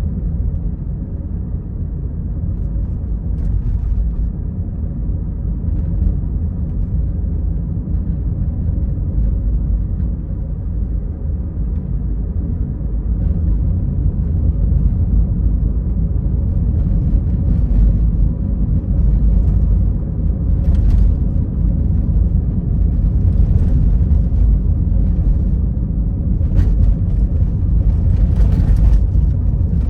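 A car driving along a road: a steady low rumble of road and engine noise, with a few brief faint clicks or taps in the second half.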